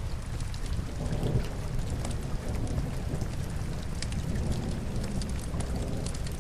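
Steady rain with a deep low rumble, mixed with scattered sharp crackles and pops of burning logs in a fireplace.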